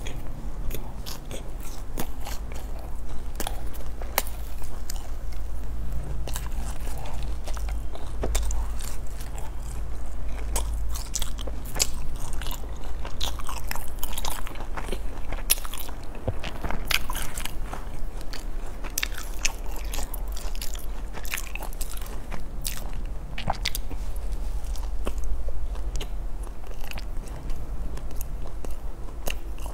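Close-miked chewing of a soft bread bun: wet mouth clicks, lip smacks and small crunches of crust, over a steady low hum.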